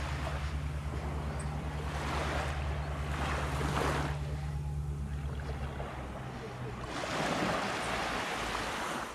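Small waves washing onto a sandy beach in several surges. A steady low engine hum underlies them and fades out after about six seconds.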